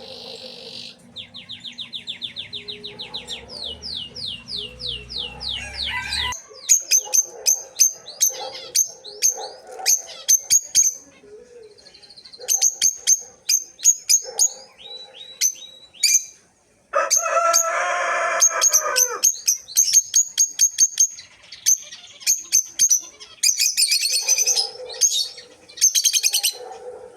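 Cage birds chirping and calling: a fast trill of repeated notes, then many quick sharp chirps, with a louder, harsher call lasting about two seconds past the middle. The sound changes abruptly twice.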